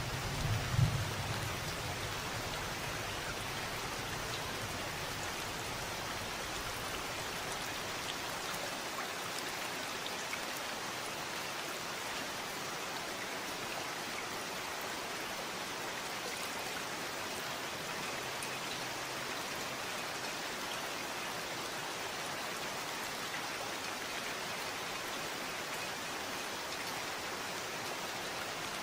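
Steady rain falling. A low rumble of thunder dies away in the first few seconds.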